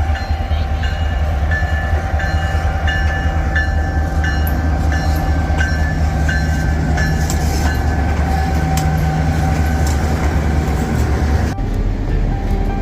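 Train running on rails: a steady low rumble with clicking over the track and steady squealing tones from the wheels. The sound changes abruptly about a second before the end.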